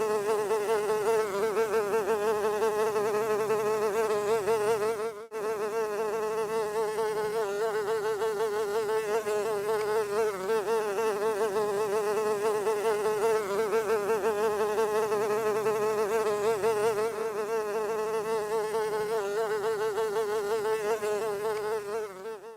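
Fly buzzing steadily, its pitch wavering quickly up and down, with a brief break about five seconds in.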